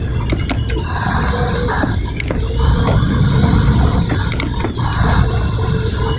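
Wind buffeting the microphone over a steady low rumble of a boat's engine and sea, with scattered knocks and a faint rising whine partway through.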